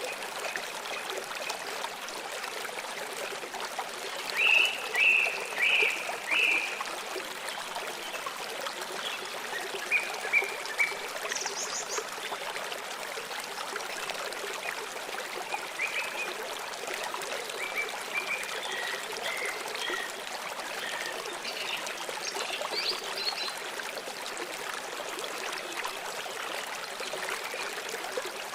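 Steady flowing stream water, with small birds chirping in short groups of notes over it. The loudest chirps come about four to seven seconds in, and more follow here and there.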